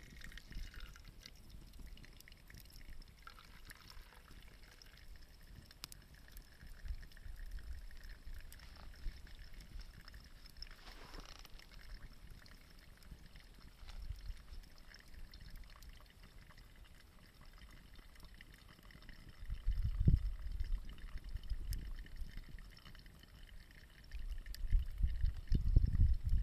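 Liquid trickling and gurgling over a faint steady hiss, with a few small clicks. Loud low rumbling comes in about twenty seconds in and again near the end.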